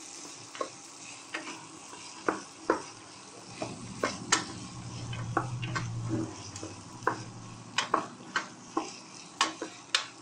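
Vegetables sizzling as they are sautéed in ghee and oil in an aluminium pressure cooker, while a spoon stirs them and knocks against the pot at irregular intervals. A low hum swells in the middle and fades.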